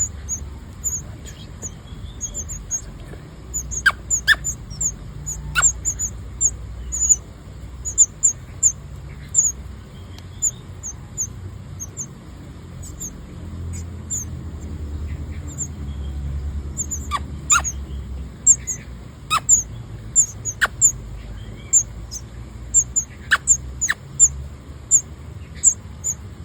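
Nestling birds begging for food: a steady run of thin, very high cheeps, several a second. A few sharp clicks and a low rumble run underneath.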